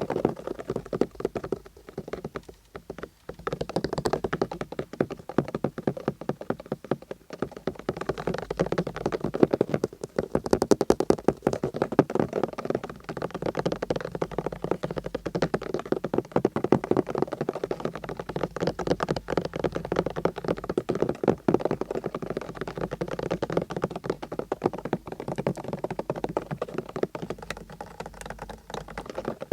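Fast tapping with the fingers on a car: a dense, rapid run of small taps, with a brief pause about three seconds in.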